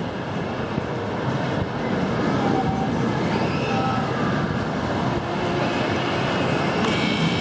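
Steel roller coaster train running along its track: a steady rumble that grows slightly louder about two seconds in.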